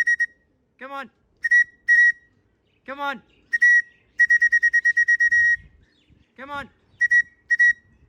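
A whistle blown in loud trilling blasts, some long and some short. Between the blasts come short calls in a man's voice that rise and fall in pitch, about three of them. Together they call racing pigeons down into the loft as they return.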